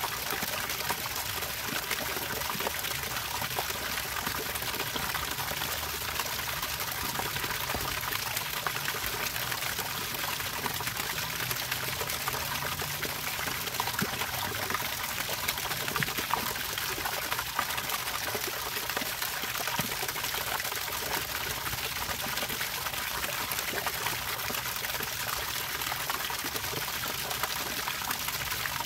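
Running water trickling and pouring steadily, an even, unbroken sound of flowing water.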